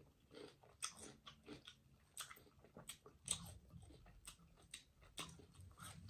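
Quiet, close-up eating sounds: chewing with wet mouth clicks and lip smacks, irregular and spread throughout, as fingers are licked clean of sauce.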